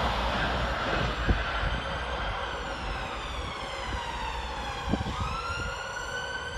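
Class 390 Pendolino electric train slowing into the station. Its traction inverters whine, several tones at once gliding down in pitch; about five seconds in they step back up and hold. Two sharp clicks sound over fading wheel rumble.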